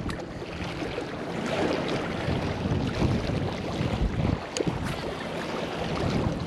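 Wind rumbling on the microphone over a steady rushing outdoor noise, with a couple of faint clicks about four and a half seconds in.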